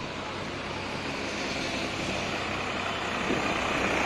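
Tractor engines running, the noise growing louder toward the end.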